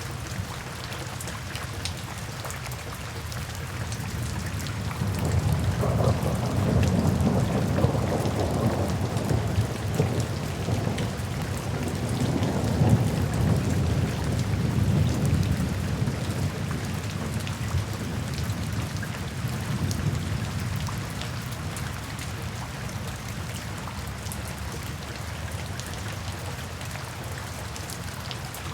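Steady rain falling, with a long roll of thunder that builds about five seconds in, rumbles for around ten seconds and slowly dies away.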